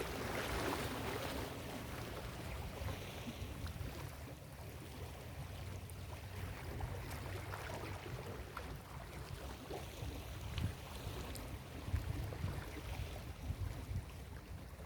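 Ocean surf on a beach: a wave washing in near the start and fading over about two seconds, then a steady low rush of surf with a deep rumble and a few small swells in level.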